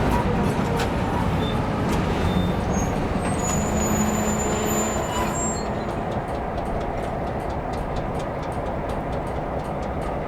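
Diesel locomotive running close by during a switching move, a steady low rumble. A brief high-pitched squeal comes through around the middle.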